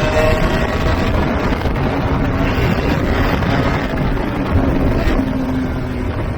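Aprilia Tuono 125's single-cylinder two-stroke engine running under way through a TYGA expansion-chamber exhaust, with heavy wind buffeting on the microphone. It eases off slightly near the end.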